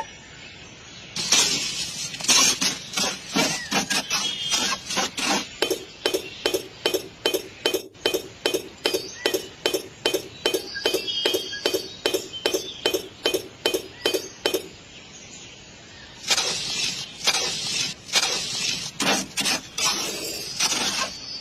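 Light, clinking taps in quick even succession, about three a second, as in miniature brick-and-cement building work. After a short pause they give way to a few seconds of scraping and knocking.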